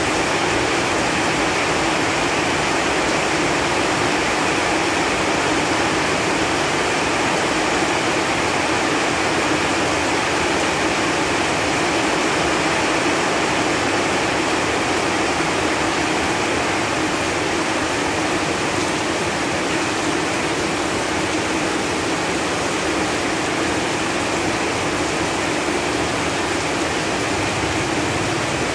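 Steady rain falling on leaves, an even hiss of many drops that holds at one level throughout.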